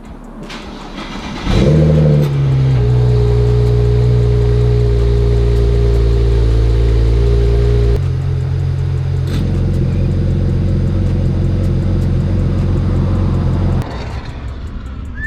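Single-turbo BMW N54 inline-six with a 3-inch resonated single-exit exhaust and no muffler, very loud. The engine is blipped up about a second and a half in and held at steady raised revs, drops to a lower steady rev about halfway through, then falls away near the end. A short falling whistle is heard at that point.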